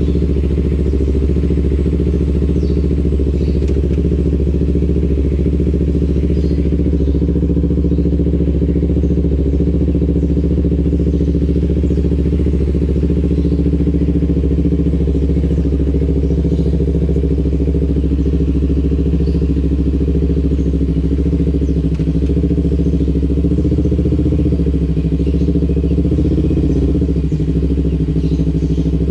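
Kawasaki Ninja 250 FI parallel-twin engine running through an aftermarket R9 H2 exhaust at steady revs.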